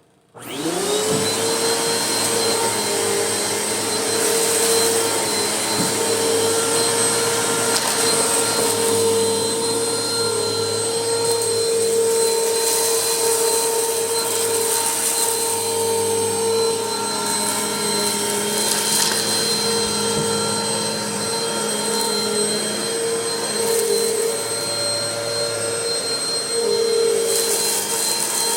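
Vacuum cleaner switched on, its motor whine rising quickly in the first second and settling into a steady run.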